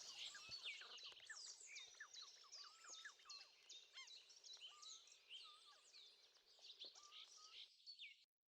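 Faint songbirds chirping and whistling, many short rapid calls, fading gradually and cutting off abruptly near the end.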